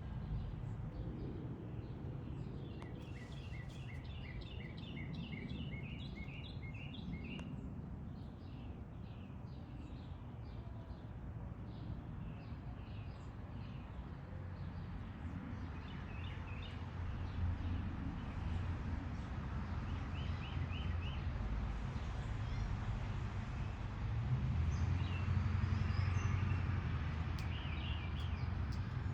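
Backyard birds calling: a rapid run of short, repeated chirps a few seconds in, then shorter bursts of calls later, over a steady low background rumble that swells near the end.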